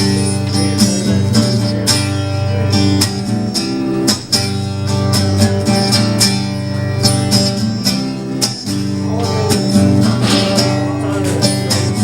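Live acoustic guitar strummed in an instrumental passage of a medley, with no singing.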